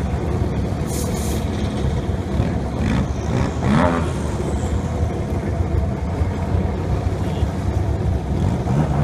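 Drag-racing engines running with a steady low rumble, with a brief rising rev about three to four seconds in.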